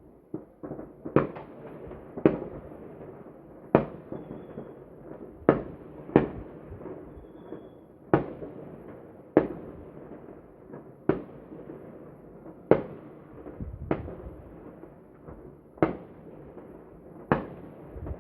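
Consumer fireworks set off by many residents at once: a string of sharp bangs about once a second, with a steady crackle and rumble of fainter, more distant bursts between them.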